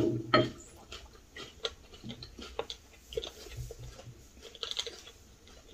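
People chewing food at a meal, with scattered small clicks and taps of chopsticks against bowls.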